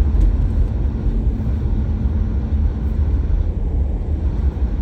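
Steady low rumble of a car driving, engine and road noise without a break.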